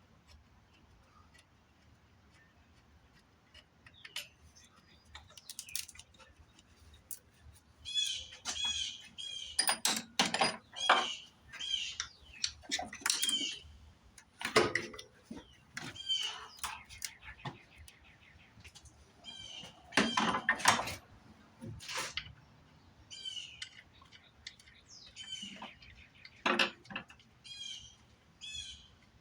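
Birds chirping in short repeated calls, mixed with irregular clattering knocks and clicks of things being handled, loudest in clusters from about a third of the way in.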